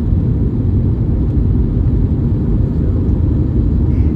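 Airbus A321neo cabin noise: the steady low rumble of the engines and airflow heard inside the passenger cabin.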